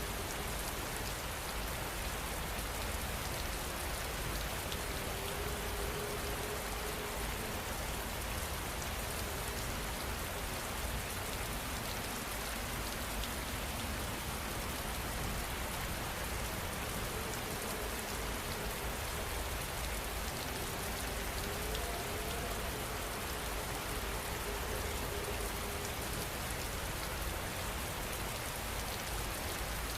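Heavy rain falling steadily, an even wash of many drops with no let-up.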